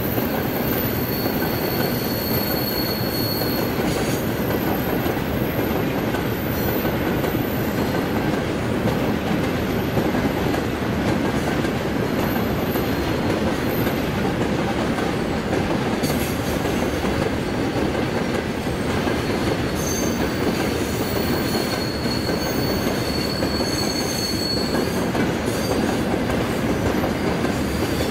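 Freight train of railway tank cars rolling steadily past: a continuous rumble of wheels on rail, with a faint high wheel squeal now and then.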